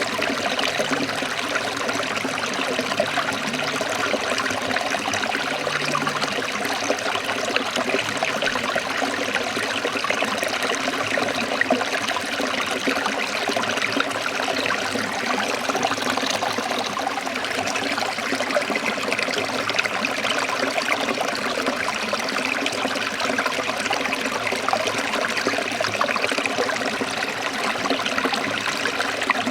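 Forest stream trickling and splashing over rocks, a steady, even rush of water.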